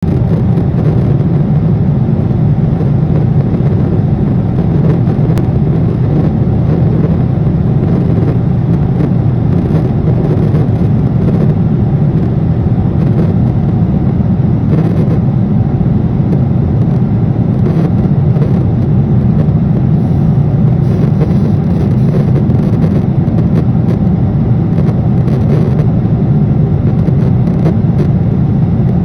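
Steady roar of airliner cabin noise in cruise: jet engine and airflow noise heard from inside the passenger cabin, deep and unchanging.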